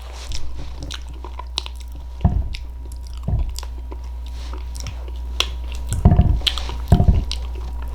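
Close-up chewing and wet mouth sounds of someone eating soft, mushy baked sweet potato: smacking clicks with a few heavier, squelchy chews, over a steady low hum.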